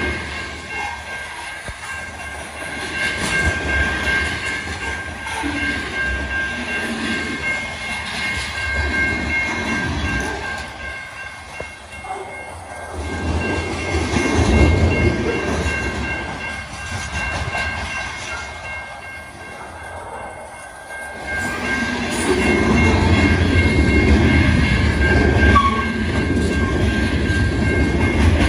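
A freight train of covered hopper cars rolls past, its wheels running on the rails in a continuous low rumble. The rumble dips twice and grows loudest near the end. Steady high-pitched tones ring above it throughout.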